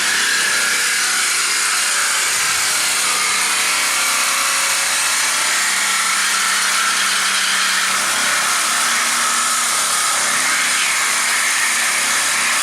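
A handheld power tool cutting through a car body's sheet steel, running loud and steady without a break, then stopping near the end.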